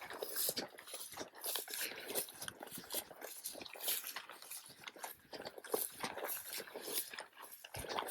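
Footsteps through tall grass: an irregular crunching and swishing of stalks brushing past and snapping underfoot.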